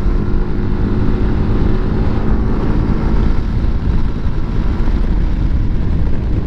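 Motorcycle on the move: a steady low rumble of wind buffeting the microphone, with the engine running underneath.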